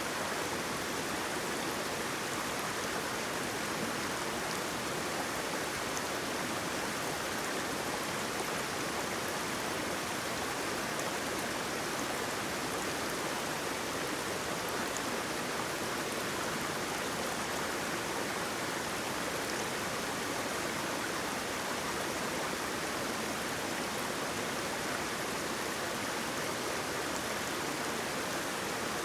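Waterfall: a steady, even rush of flowing water that does not change.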